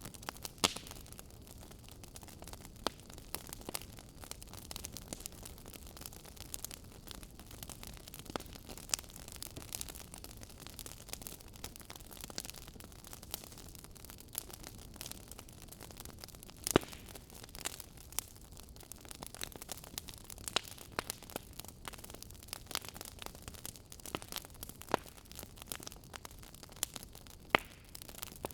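Campfire burning, wood crackling with irregular sharp pops over a low steady hiss; a few louder snaps, one about a second in and one past the middle.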